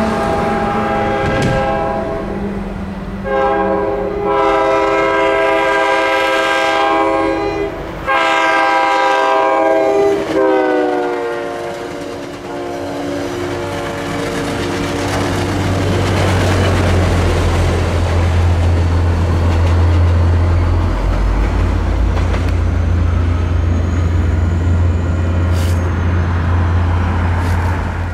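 Diesel freight train locomotive sounding its multi-tone horn in several long blasts, the last one dropping in pitch as the locomotive passes. The horn gives way to the loud, steady rumble of the locomotives and freight cars rolling past.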